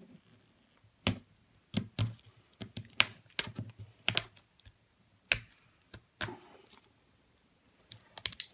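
Hands working at a plastic toy package, making sharp, irregular clicks and taps as the plastic is gripped and pulled.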